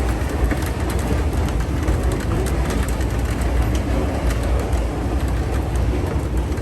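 Underground station ambience: a steady low rumble with a noisy hiss over it, unbroken throughout.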